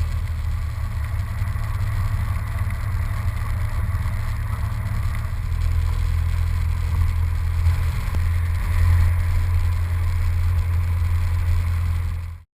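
Cessna 172's piston engine running with a steady low drone that grows a little stronger about halfway through, then cuts off suddenly near the end.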